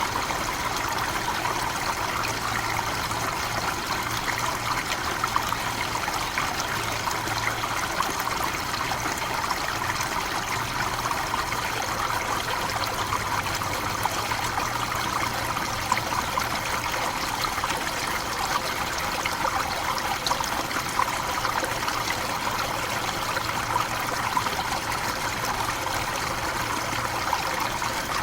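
Waterfall in a tropical forest, water falling and splashing in a steady, even rush with small splashes through it.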